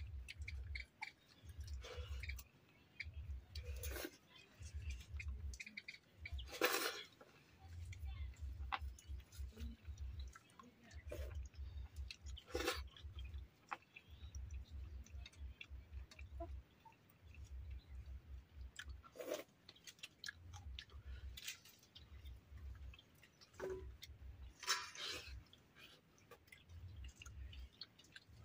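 Two people chewing food while eating rice and curry by hand, a faint rhythmic chewing in runs of a second or two with short pauses. A few sharp clicks and scrapes come in between, from fingers and food against steel plates.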